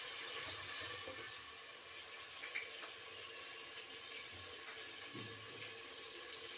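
Fried onions, ginger-garlic and whole spices sizzling in oil in a steel pot just after a splash of water, a steady hiss that eases slightly after the first second, with a few faint ticks.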